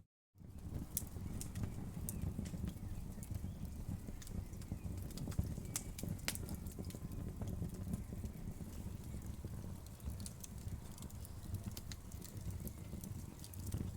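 Wood fire crackling: frequent sharp pops and snaps of burning wood over a low rumble of flames. The sound drops out completely for a split second at the very start.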